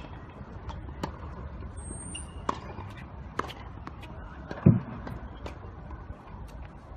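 Tennis rally: the ball is struck back and forth, sharp pops about once a second, with a louder dull thump a little after halfway.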